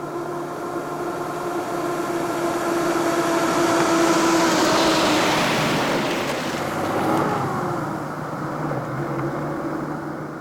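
A motor vehicle driving past: a steady engine hum and hiss swell to a peak about halfway through, the engine note drops in pitch as it goes by, and the sound fades.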